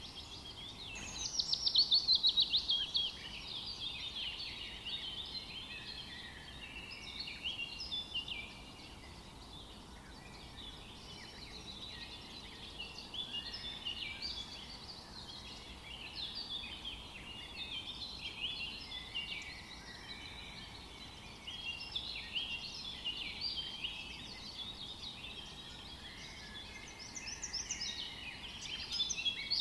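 Several songbirds singing and calling together over a steady background hiss. A louder rapid trill comes about two seconds in and another near the end.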